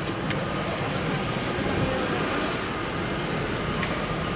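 2003 Ford Expedition's V8 engine idling steadily after a crank-no-start caused by a failed built-in fuel pump relay in the fuse box has been repaired.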